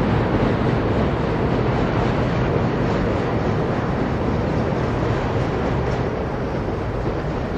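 Steam-hauled train of two old passenger coaches running, a steady noise without a distinct beat that eases slightly near the end.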